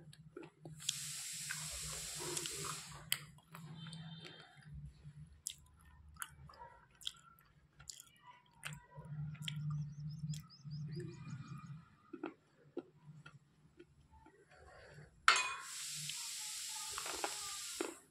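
Close-up chewing and crunching of washed, softened slate pencils, with many small sharp crunches. There are two longer, louder stretches of crackling, one about a second in and one near the end, over a steady low hum.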